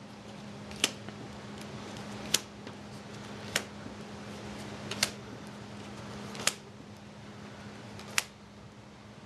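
Trading cards being dealt one at a time onto a table, each landing with a sharp tap. There are six taps, about one every second and a half, over a faint steady low hum.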